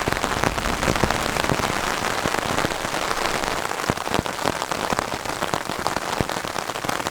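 Steady rain falling, with many sharp individual drop hits sounding through it.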